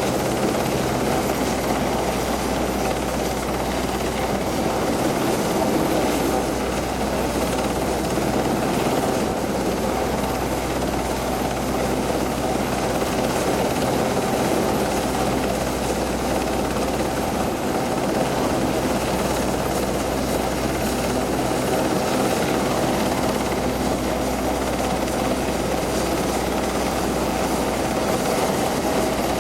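RAF search-and-rescue helicopter close overhead, its rotor and turbines running in a steady, unbroken drone.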